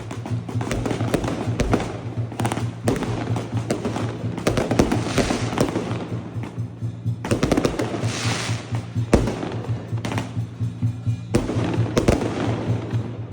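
Fireworks going off in a dense run of irregular sharp bangs, with waves of crackling about five and eight seconds in, over music playing steadily underneath.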